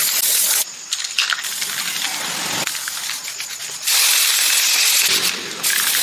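Loud bursts of hissing, like a jet of air or spray switched on and off, with rattling and small clicks in the gaps between bursts.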